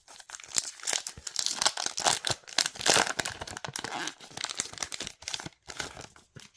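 A trading-card booster pack's wrapper being ripped open and crinkled by hand, a dense crackling tear that is loudest about halfway through and stops just before the end.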